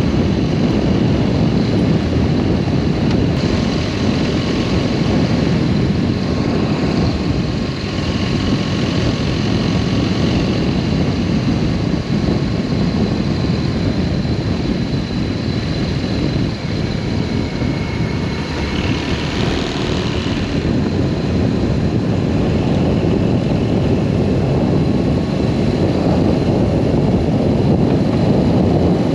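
BMW R1200S boxer-twin motorcycle under way, its engine running steadily beneath a loud, constant rush of wind noise.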